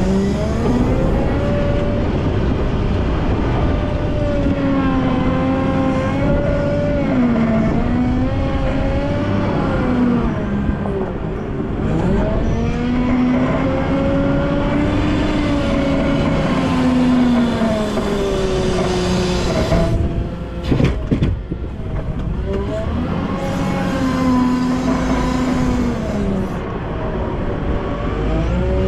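Volvo L90F wheel loader's diesel engine working, its revs rising and falling again and again as the loader works. A few sharp knocks come about two-thirds of the way through.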